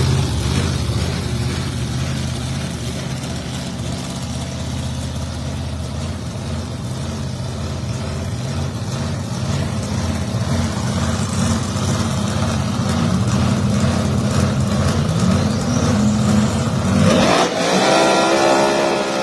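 Drag race cars' engines idling with a steady, heavy low rumble. About 17 seconds in, an engine revs up sharply, its pitch sweeping upward.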